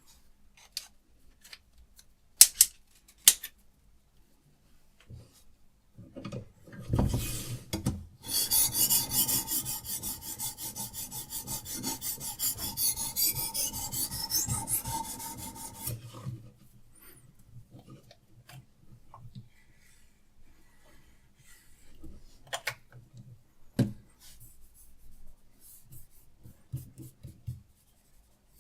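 Diamond sharpening stone stroked rapidly back and forth along a steel knife edge on a guided sharpening system: a run of quick rasping strokes lasting about eight seconds. A few light clicks come before and after it.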